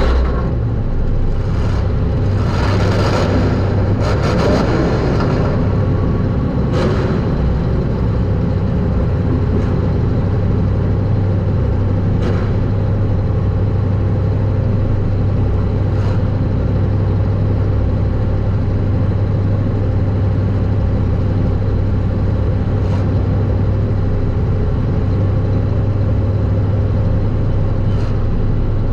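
Super stock race car's engine heard from inside the car, running steadily at speed, with a few brief sharp knocks over the drone.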